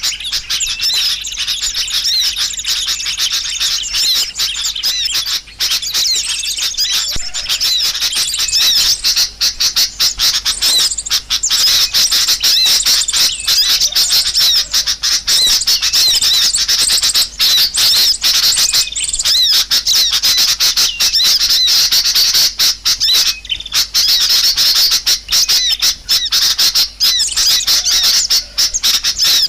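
Dense, continuous chirping of a flock of small birds, many short high calls overlapping into a busy chatter: a bird-lure call recording meant to draw small birds in.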